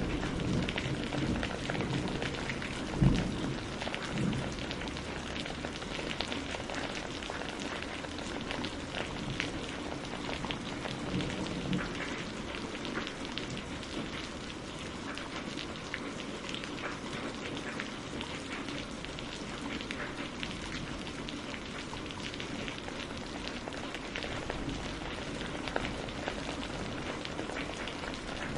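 Steady rain on a greenhouse roof, heard from inside, with many separate drops audible. About three seconds in there is a brief low thump, with a smaller one a second later.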